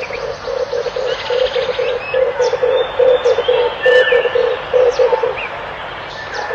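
Red turtle dove cooing in a fast, even run of low notes, about two to three a second, that stops a little after five seconds in. Other small birds chirp higher up throughout.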